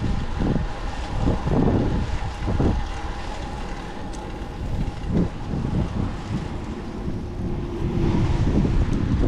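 Wind buffeting the microphone of a camera riding on a moving bicycle: a gusty low rumble that eases off in the middle and picks up again near the end.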